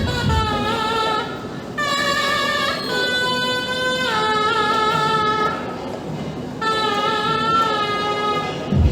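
A wind instrument with a reedy, horn-like tone plays a slow melody of long held notes, each lasting one to two seconds and stepping up or down in pitch, with a few quick bends between notes near the end.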